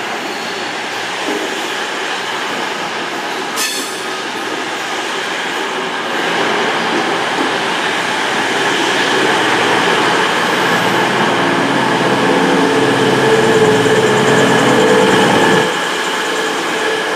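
A CrossCountry Class 221 Voyager diesel-electric multiple unit drawing slowly into the platform, with its underfloor diesel engines running and the wheels and rails giving a steady noise. There is one short knock about four seconds in. The engine note grows louder from about halfway through, then drops away a second or so before the end.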